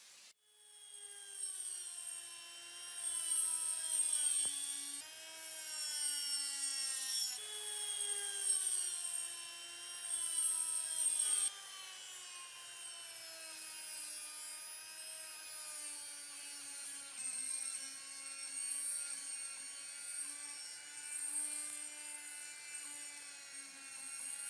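Small electric power tool motor starting up and running with a whine, its pitch sagging as it takes load and jumping back up several times when the load eases, as it works on a metal part.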